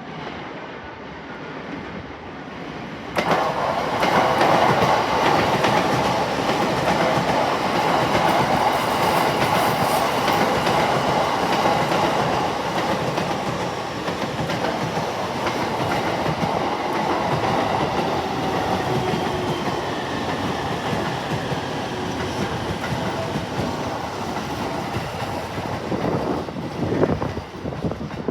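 Electric train running past the platform close by, its wheels clattering over the rail joints. The noise starts suddenly about three seconds in, stays loud and steady, and begins to thin out near the end.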